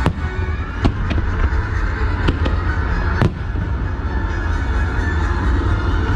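Aerial fireworks bursting: a run of sharp bangs, the loudest about three seconds in, over a continuous deep crackling rumble of many shells, with music playing underneath.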